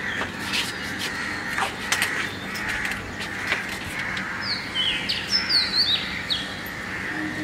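Small birds chirping, with a quick run of high, sliding chirps about five to six seconds in.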